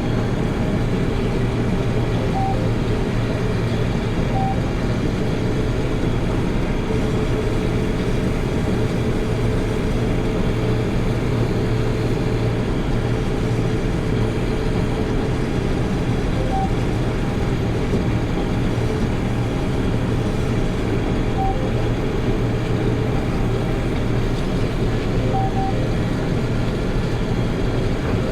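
Combine harvester running steadily under load while harvesting soybeans, a constant deep engine and threshing drone.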